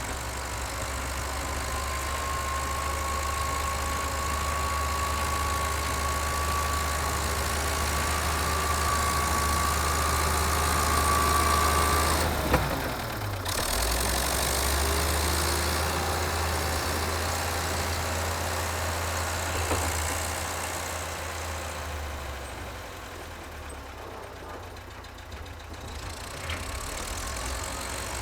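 Vintage Volvo tractor engine running steadily, with a thin high whine that climbs slightly over the first twelve seconds. The sound breaks off briefly about twelve seconds in, then the engine carries on and dips quieter for a few seconds near the end.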